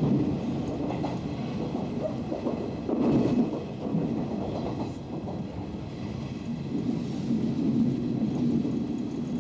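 Hanshin electric train running, heard from inside the carriage: a steady rumble of wheels on rail, swelling louder now and then.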